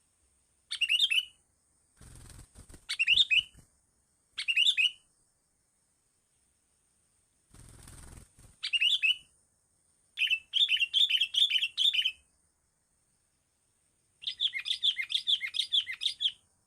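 A small bird calling in short chirped phrases, then in two fast chattering runs of repeated notes. Two brief noisy rustles come between the calls, at about two and eight seconds.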